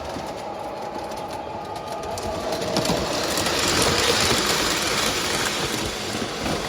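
Model trains running on the layout track: a steady electric-motor whir with wheels clattering over the rail joints, getting louder about three seconds in and easing slightly near the end.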